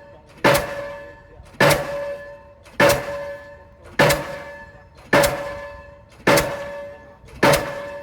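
Delmag D46-32 diesel pile hammer driving a 450 mm PHC concrete pile: seven heavy blows at a steady rate of a little over one a second, each with a ringing clang that fades before the next blow.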